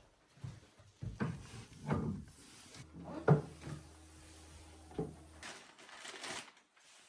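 A handful of irregular knocks and clunks, with a faint low steady hum in the middle.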